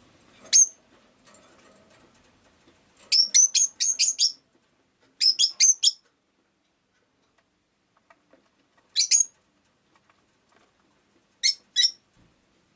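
Rosy-faced lovebird giving short, sharp, high-pitched chirps in irregular groups. There is a single chirp, then a quick run of about six, another run of four, and a few scattered single and double chirps near the end.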